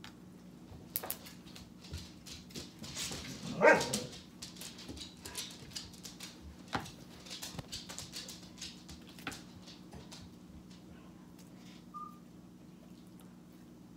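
A dog's short, wavering cry about four seconds in, amid scattered small clicks and crackles over a steady low hum.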